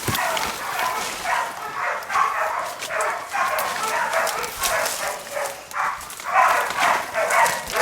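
Bailing pig dogs barking hard and continuously, baying a boar they have bailed up.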